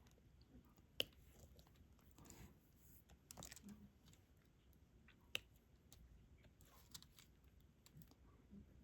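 Faint, scattered small clicks and taps of diamond-painting work: a stylus picking up resin drills and pressing them onto the adhesive canvas, with a sharper click about a second in and another about five seconds in.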